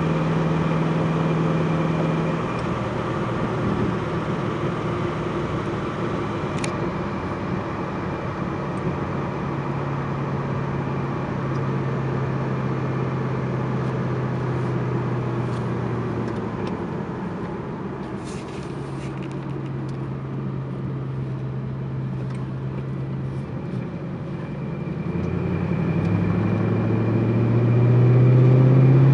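Twin-turbocharged 5.4-litre V8 of a Ford GT running, its note holding steady at a few engine speeds that shift up and down. Near the end the pitch climbs and the sound grows louder as the engine revs up.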